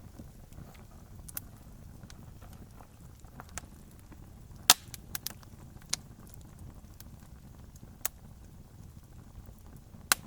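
Wood campfire crackling: sharp, irregular pops and snaps over a steady low rumble of the flames, the loudest pop a little under halfway through.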